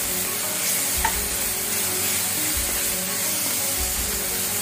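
Chopped onions, green chillies and ginger-garlic paste sizzling steadily in hot oil in a metal kadai, stirred with a spatula.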